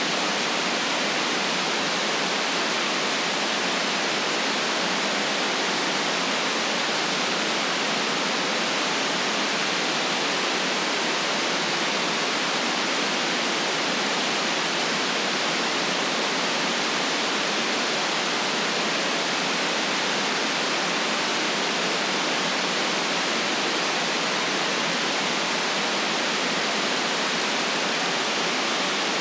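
Steady white noise: a constant, even hiss that stays the same throughout, bright and without any low rumble.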